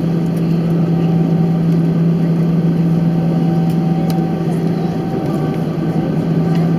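Cabin noise inside an Airbus A319-111 with its CFM56 engines running: a steady, loud drone with a strong low hum and a fainter higher tone over rushing noise, holding level.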